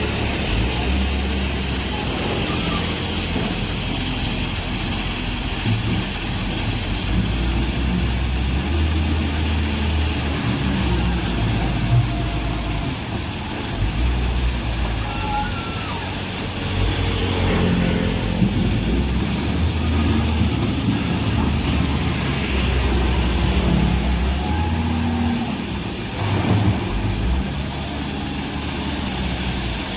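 Heavy diesel earthmoving machinery working, its deep engine running continuously and swelling and easing in strength, with a few short sharp knocks about 12, 18 and 27 seconds in.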